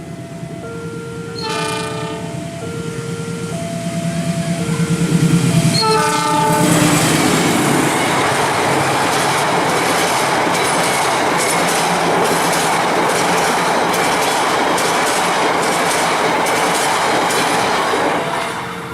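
An Indonesian express passenger train sounds its locomotive horn in two short blasts, then passes at speed with loud wheel clatter in a steady clickety-clack rhythm. At first a two-pitch alarm tone alternates in the background.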